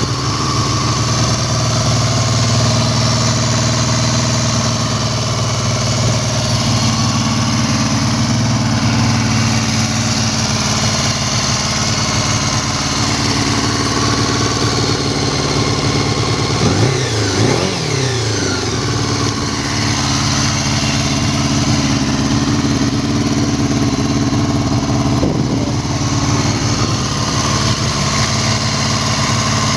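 Used Honda MC14E 250 cc inline-four motorcycle engine running steadily at idle, revved up and back down once about two-thirds of the way through, with a short blip a little later.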